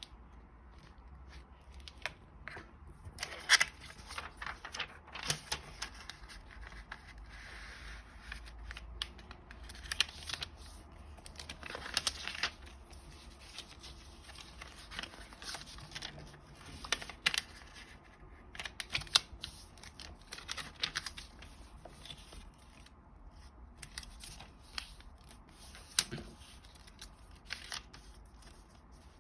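Origami paper being handled, folded and creased by hand: irregular rustles with sharp crinkles and snaps of paper.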